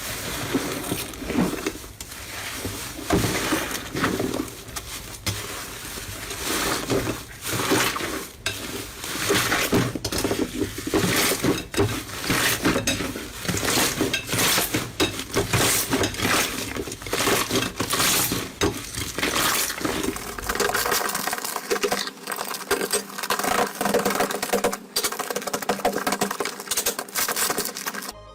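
Slime being squished and worked by hand, giving a dense, irregular run of crackles and clicks.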